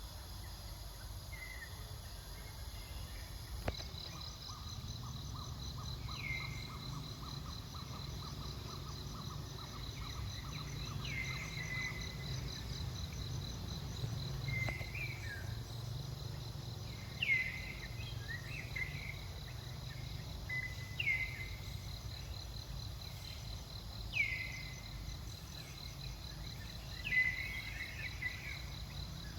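Forest ambience: insects trilling steadily in a high, even chorus, with a bird giving short downward-sliding calls every few seconds over a low rumble.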